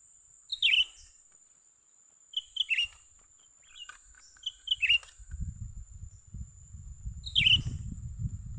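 A bird, which the video presents as a cucak ranting, calling four times. Each call is one or two short high notes followed by a falling slurred note. A steady high insect whine runs underneath, and a low rumble joins in about halfway through.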